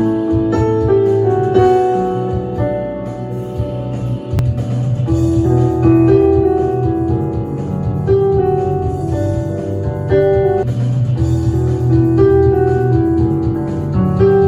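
Music: a keyboard playing slow sustained chords, with the notes changing every second or two.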